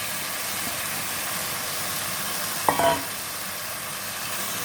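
Chopped onions sizzling steadily as they fry in hot oil in a pan, with one brief louder sound a little past halfway.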